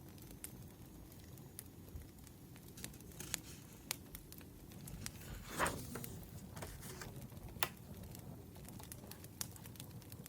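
Wood fire crackling: irregular sharp snaps and pops over a low, steady rumble, with one louder, longer crackle a little past halfway.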